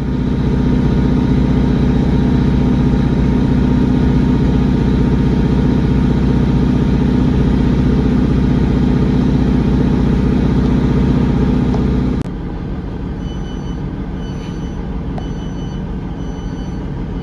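Underfloor Cummins diesel engines of a Class 150 Sprinter diesel multiple unit, heard from inside the carriage. They run loud and steady, then drop abruptly to a much quieter note about twelve seconds in. A series of short high beeps sounds near the end.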